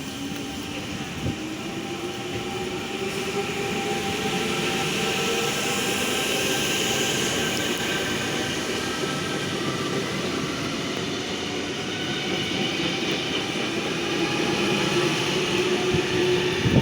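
A V set electric intercity train running in along the platform, with the rumble of wheels on rails and a motor whine that climbs over the first few seconds and then eases.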